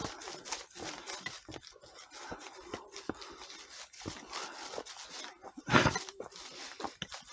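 Footsteps on a stony trail: irregular scuffs and clicks of shoes on rock and grit while walking uphill, with a louder scrape about six seconds in.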